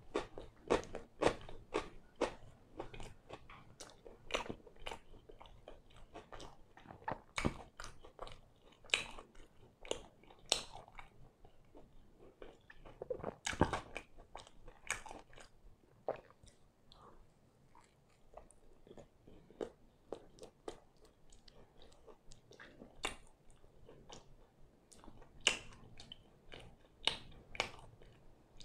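Close-miked chewing and biting of pan pizza: irregular crackly crunches of the crust between wet mouth sounds. The strokes come thick in the first half, with two sharper bites about 7 s and 13–14 s in, and thin out in the middle before picking up again near the end.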